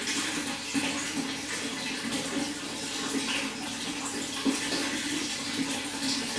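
Running water flowing and splashing steadily, with small irregular splashes flickering through it.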